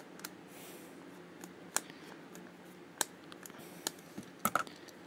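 Sparse light clicks and taps of hands handling a plastic toy engine, a few sharp ticks spread over a few seconds.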